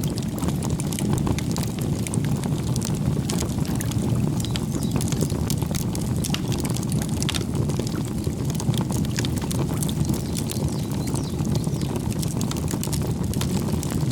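Campfire burning: a steady low rush of flames with many small, sharp crackles and pops scattered throughout.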